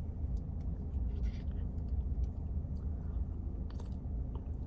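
Low steady rumble of a car at idle, heard from inside the cabin, with a few faint clicks from eating.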